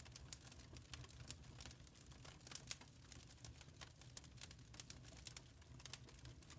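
Wood fire crackling in a fireplace: quiet, irregular snaps and pops, several a second, over a low steady rumble.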